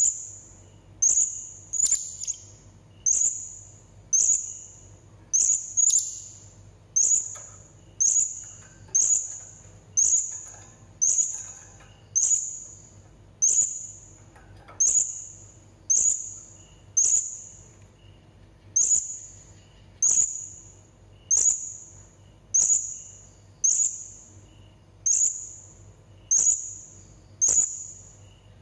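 Blue-crowned hanging parrot (serindit) calling: a single sharp, very high-pitched note repeated at an even pace, a little faster than once a second, each note fading quickly.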